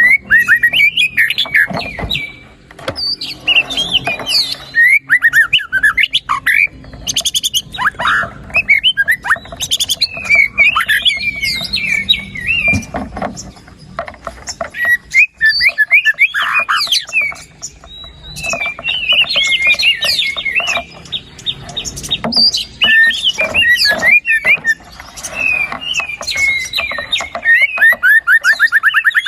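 White-rumped shama singing loudly and continuously: a varied song of quick whistled, gliding and chattering phrases, broken by short pauses. It ends in a fast run of repeated notes.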